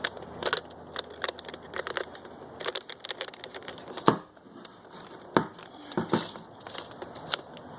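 Irregular crinkling and clicking of hands handling the new rubber fuel-tank gasket and plastic fuel pump parts, with two sharper knocks about four seconds in and again a little over a second later.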